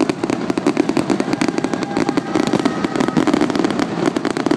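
A dense barrage of fireworks: rapid, overlapping bangs and crackles, many a second, without a break.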